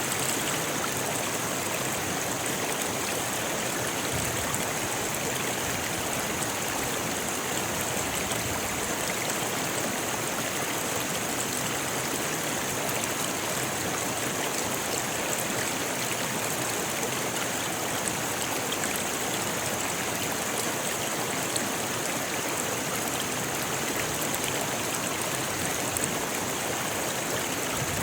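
Rocky river rushing steadily over stones: an even, unbroken wash of water noise.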